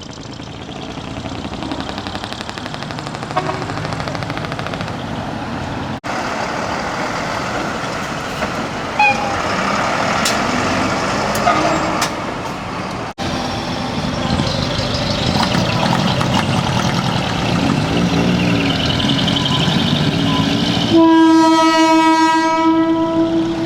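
Heavy trucks driving past with their engines running, then, about 21 seconds in, a loud truck air horn sounds one long, steady note for two to three seconds.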